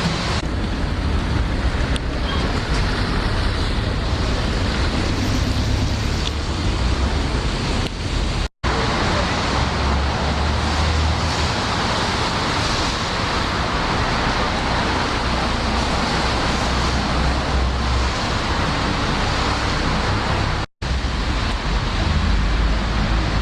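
Steady rushing outdoor noise with a heavy low rumble, broken twice by a sudden silent gap, about eight and a half and twenty seconds in.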